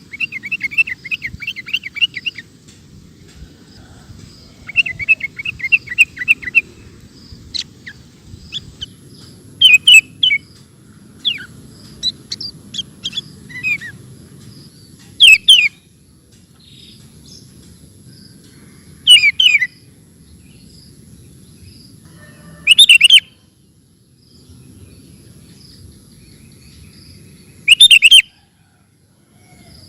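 Sooty-headed bulbul (kutilang) singing: two runs of rapid chattering trills in the first seven seconds, then loud short calls every few seconds. A faint low background noise runs underneath.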